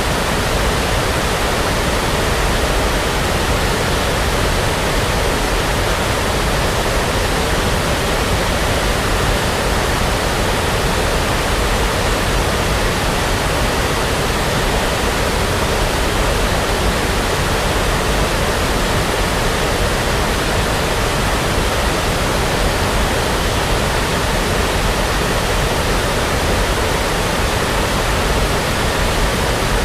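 Brown noise for sleep: a continuous, even rush of synthetic noise that never changes in level or character.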